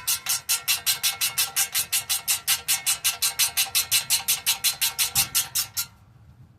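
Ratchet wrench clicking rapidly and evenly, about seven sharp metallic clicks a second, while a bolt is run in; the clicking stops about six seconds in.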